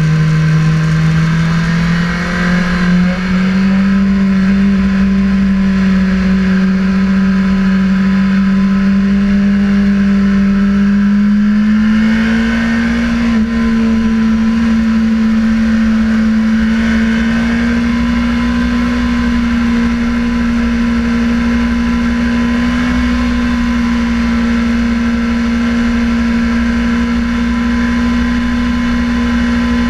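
Sportbike engine running hard and steady, its pitch creeping slowly upward with small steps up about a second in and about twelve seconds in, over a steady low rush of noise.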